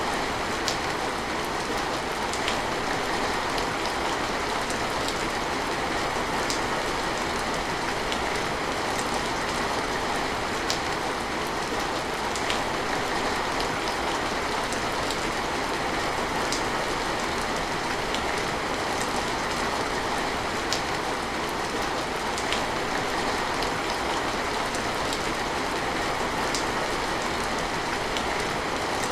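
Steady rain, an even hiss with scattered sharp drop ticks every second or so.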